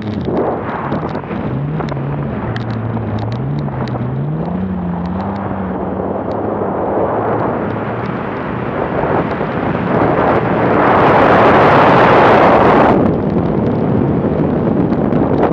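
BMW car engine running hard under load, its note climbing and dropping repeatedly in the first few seconds, mixed with wind rushing over a bonnet-mounted microphone. About ten seconds in a louder rushing noise swells and cuts off sharply about three seconds later.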